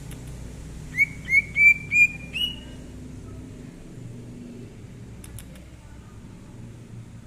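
Green leafbird (cucak ijo) singing a short phrase of five rising whistled notes, about three a second, the last held a little longer and higher.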